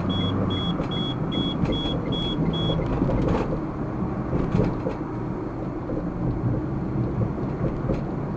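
Car driving, with steady road and engine noise inside the cabin. A short high electronic beep repeats about two and a half times a second and stops about three seconds in, followed by a single click.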